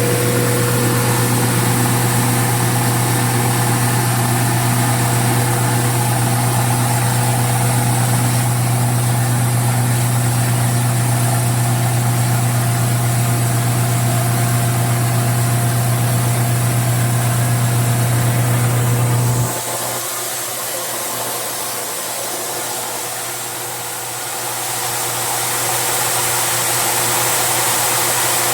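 Corn crushing machine running with a steady, loud low hum. About two-thirds of the way through, the hum cuts off suddenly, leaving a quieter whirring that builds up again near the end.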